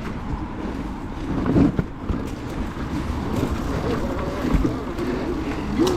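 Wind buffeting the microphone while riding an electric dirt bike, a steady rumble, with a faint whine from the bike's electric motor rising and falling with the throttle.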